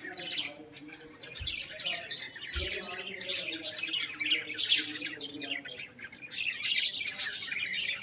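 Many small birds chirping and tweeting at once, a dense, continuous high-pitched chatter.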